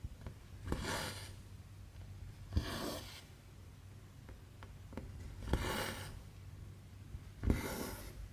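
Needle and embroidery thread drawn through cross-stitch fabric: four stitches about two seconds apart, each a click as the needle pokes through, then a short hiss of thread rubbing through the cloth.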